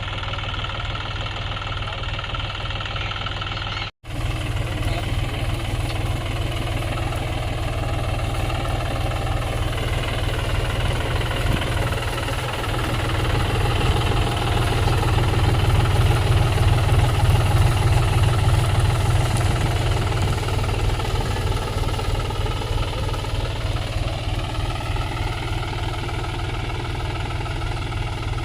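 John Deere tractor's diesel engine running steadily at low speed. The sound cuts out for an instant about four seconds in, then comes back and swells louder for several seconds in the middle.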